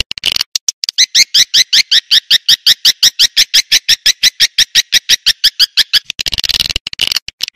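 Swiftlet lure call (suara tarik walet) played back: a fast, even train of short upward-sweeping chirps, about seven a second, broken by denser twittering near the start and again about six seconds in.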